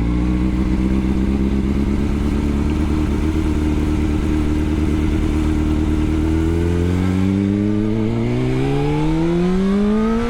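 2006 Honda CBR600's inline-four engine, heard from the rider's seat, running at a steady low speed and then rising steadily in pitch over the last few seconds as the bike accelerates in gear.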